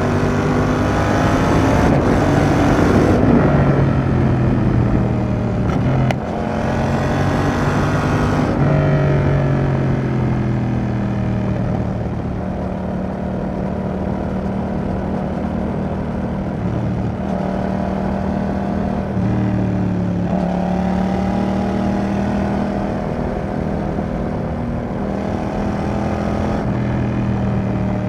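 Yamaha XSR700's CP2 parallel-twin engine, breathing through an aftermarket Roadsitalia exhaust, pulling hard with revs climbing. Gear changes come about three and six seconds in, and the revs drop back near eight seconds. It then runs at a steadier pace with small rises and falls in revs.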